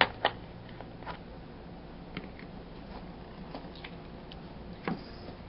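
Scattered light clicks and knocks of plastic toy figures being handled and set into a plastic toy playset, the loudest knock near the end.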